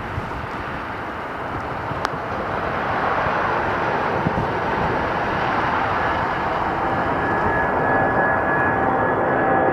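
Jet airliner's engines, a broad rushing noise growing steadily louder as the aircraft nears, with thin steady engine whines coming through from about six seconds in. A short click sounds about two seconds in.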